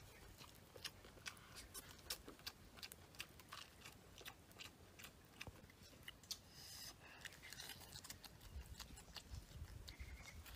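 Chewing and biting into a cob of grilled corn: quiet, irregular crunching clicks, several a second.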